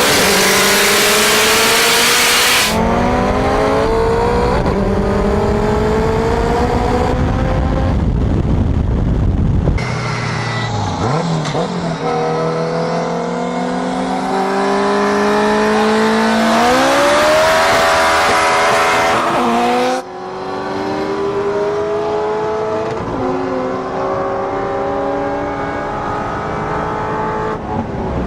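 Turbocharged Honda K20A2 four-cylinder engine pulling hard under boost, its pitch climbing through the revs and falling back at each shift, over several edited runs that start and stop abruptly.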